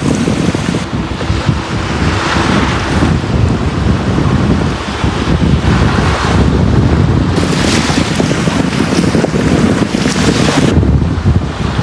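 Ocean waves breaking and washing up a beach, heard as surges of hiss every few seconds over a constant low rumble of surf.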